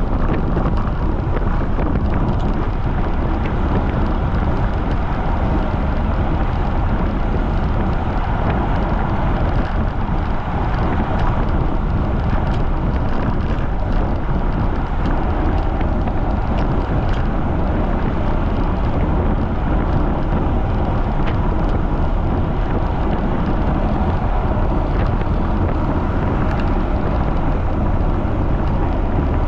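Strong wind buffeting the microphone of a camera on a moving bicycle: a steady, loud rumble with no breaks.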